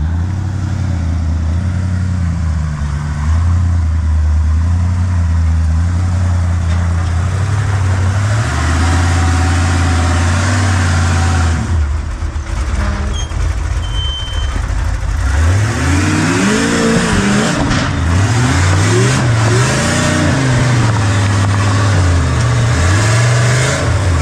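A full-size rock-crawling buggy's engine runs at a low, fairly steady speed, then from about two-thirds of the way in revs up and down again and again in quick throttle blips as it works its way up the rocks.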